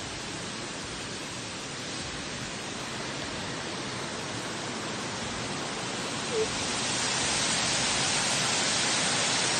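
Rushing water of a fast-flowing creek or river, a steady hiss that grows louder over the last few seconds.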